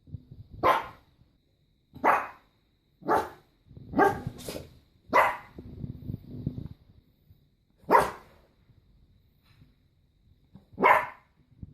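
A dog barking in single sharp barks, about eight in all, most bunched in the first five seconds, then two more spaced out after a pause.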